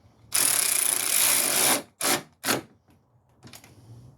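Power wrench running the final engine-mount bolt of a 2003 Ford Focus down. It gives one run of about a second and a half, then two short bursts.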